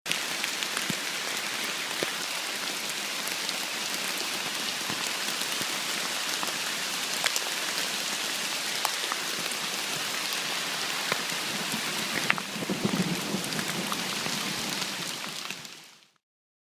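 Heavy rain falling steadily, many separate drops ticking on surfaces through the hiss, with a brief low rumble about three-quarters of the way through; the sound fades out near the end.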